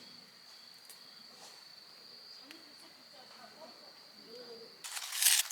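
A cricket's steady high-pitched trill runs on without a break, with faint voices in the background. Near the end a brief loud burst of noise cuts in.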